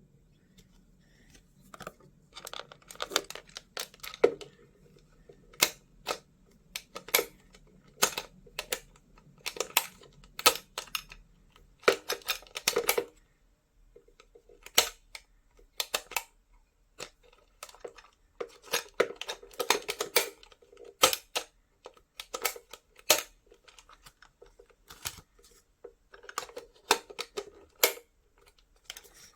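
Close handling noises: irregular short rustles, taps and clicks, several a second, with brief pauses between clusters.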